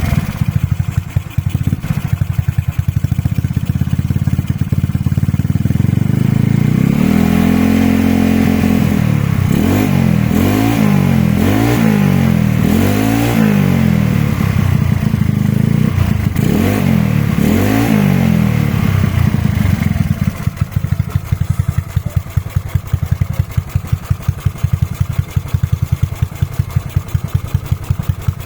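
Yamaha Mio scooter's single-cylinder engine heard through its exhaust: it idles with a rapid, even beat, is revved up and held about seven seconds in, then blipped in a series of quick revs, and settles back to idle about twenty seconds in.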